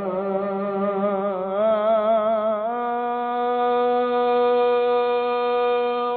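Solo male voice chanting a wordless melisma in an Egyptian religious ibtihal: an ornamented run of quick pitch turns, then about three and a half seconds of one long steady held note that cuts off sharply at the end.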